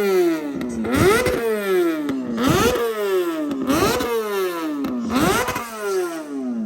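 Superbike engine revved in four sharp throttle blips about a second and a half apart, each one rising fast and then winding slowly back down toward idle.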